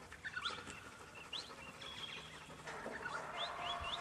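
Birds calling: repeated short chirps that rise in pitch, mixed with a few brief steady whistled notes.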